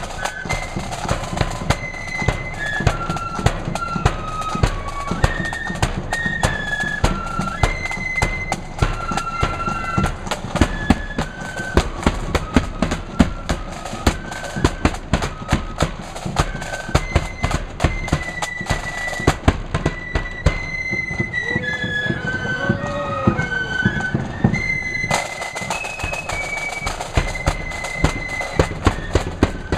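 Marching flute band playing a tune: a high flute melody over rapid snare drumming and bass drum beats.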